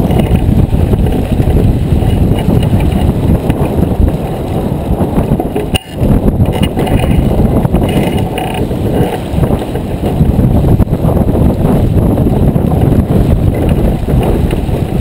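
Wind buffeting the microphone aboard a J24 sailboat under way: a loud, rumbling, gusting noise that briefly drops out about six seconds in.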